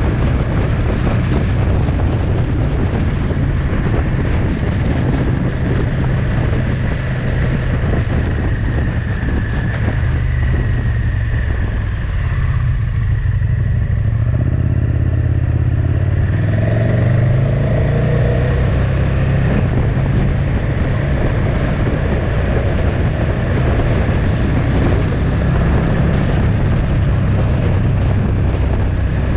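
A motorcycle engine running on the move, with wind and road noise. About halfway through it eases off, then pulls away again with a rising engine note.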